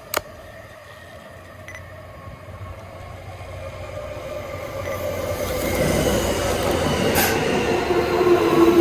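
An electric train approaching and growing steadily louder, with rumble and a high steady squeal from the wheels strongest near the end. A single sharp click sounds just after the start.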